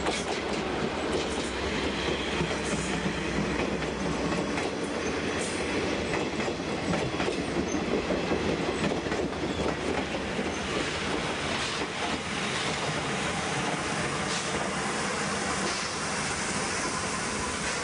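Passenger coaches of an arriving train rolling slowly past, their wheels clicking over rail joints and points, with a faint wheel squeal in the second half.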